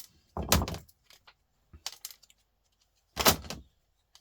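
Pliers working small copper and metal parts off a laptop charger's circuit board: two short scraping, clattering bursts about three seconds apart, with a few light clicks between.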